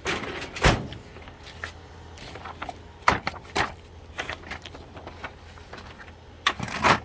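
Sliding noise and several plastic knocks from a printer's paper tray being handled while paper is loaded. The knocks fall near the start, about three seconds in, and near the end, over a low steady hum.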